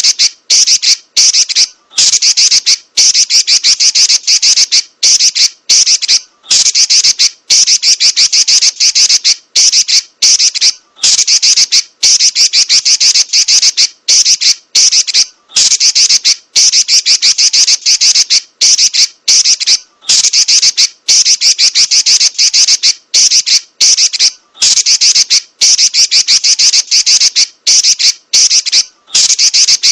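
Female Pekin robin (red-billed leiothrix) giving loud, shrill, rapid chattering trills in long rolling bursts, each about one to two seconds long with brief pauses between.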